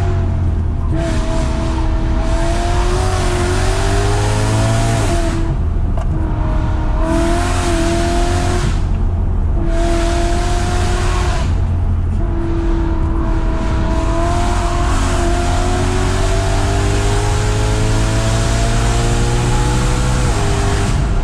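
BMW E92 M3's V8 engine heard from inside the cabin, pulling hard in the lower gears and lifting off repeatedly through curves: the engine note climbs, falls away and picks up again several times. It ends with a long, steadily rising pull and an upshift near the end.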